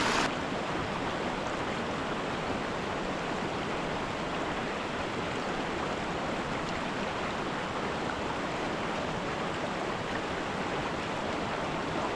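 Small mountain stream flowing: a steady, even rush of water. A louder rush cuts off just at the start.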